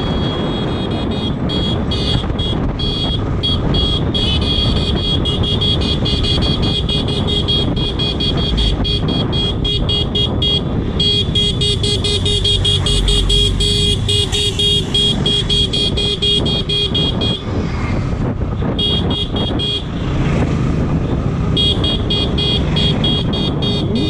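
Motorcycle on the move, with engine, wind and road noise, under a high, shrill buzz that pulses rapidly and drops out for a few seconds in the second half.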